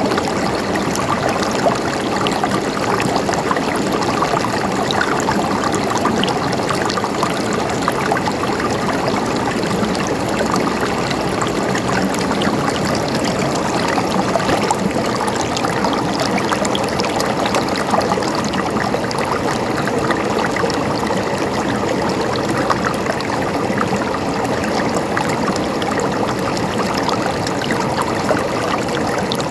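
Stream water flowing and gurgling steadily, with many small splashes and trickles over a continuous rush.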